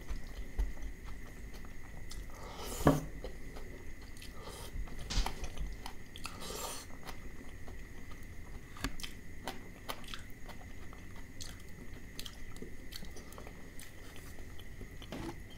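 Close-miked chewing of a mouthful of mutton liver curry and rice: soft wet mouth clicks and smacks, with a few louder ones around three and five seconds in.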